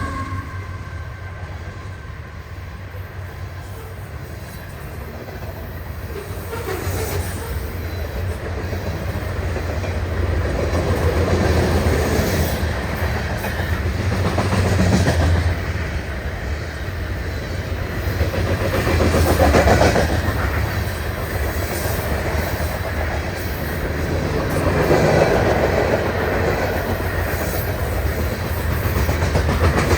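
Freight cars of a Union Pacific grain train rolling past, wheels clicking over the rail joints, with a steady low rumble that swells and eases every few seconds.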